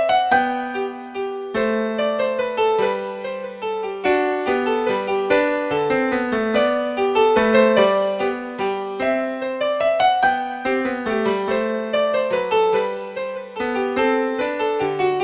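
Background piano music: a gentle keyboard melody of steady, separate notes.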